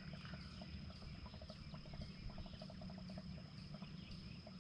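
Faint insect chorus: a steady high-pitched trill with short lower chirps repeating several times a second, over a low rumble.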